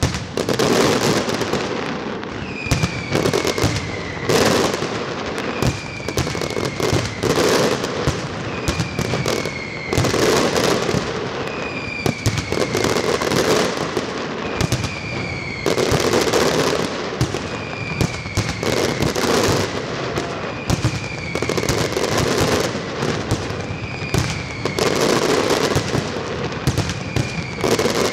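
Aerial fireworks display: a dense, continuous run of shell bursts and bangs over steady crackling. A short whistle falling in pitch recurs every two to three seconds.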